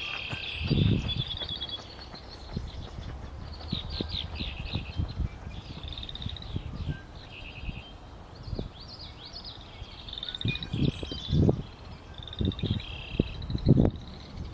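Several songbirds singing and calling, with overlapping chirps and short fast trills. Short low thumps come about a second in and several times near the end.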